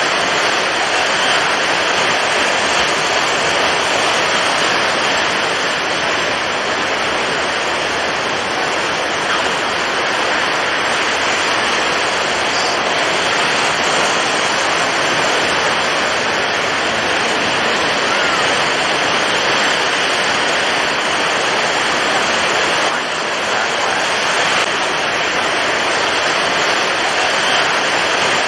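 Storm at sea: heavy waves and strong wind blending into a dense, steady rushing noise that hardly rises or falls.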